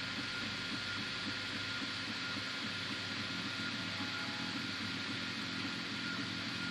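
Anet A8 3D printer running a print: its stepper motors buzz in quick, changing moves over a steady fan hiss and a faint high whine.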